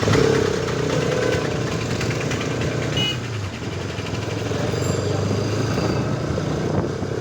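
Kawasaki Ninja ZX-10R's inline-four engine running steadily.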